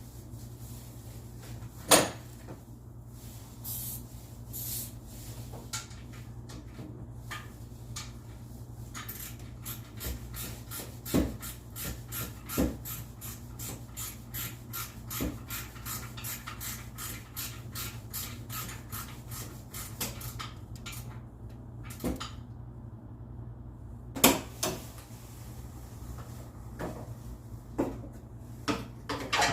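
Scattered knocks and scrapes, with a long run of even clicks about three a second in the middle, over a steady low hum. The sharpest knocks come about two seconds in and again near the end.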